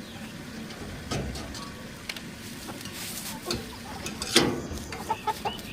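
Scattered knocks and rustling as chickens are caught and handled, with the loudest knock about four seconds in, then a few short chicken clucks near the end.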